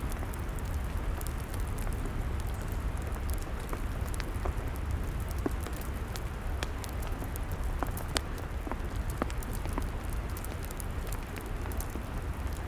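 Log fire crackling: scattered sharp pops and snaps over a steady low rush of burning.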